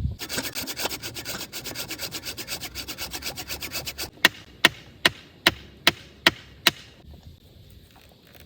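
A hand tool works wood in quick rasping strokes, about ten a second, for some four seconds, then stops. It is followed by seven sharp knocks evenly spaced a little under half a second apart.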